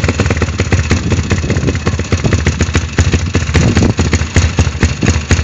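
150cc pit bike's single-cylinder four-stroke engine idling, a fast, slightly uneven beat of exhaust pulses. It is running with the choke still closed, which the owner says leaves it a bit sluggish.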